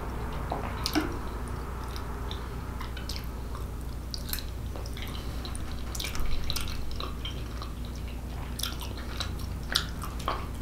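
Close-up wet chewing and mouth smacks of someone eating lasagna, with scattered clicks of a knife and fork against a plastic tray, over a steady low hum.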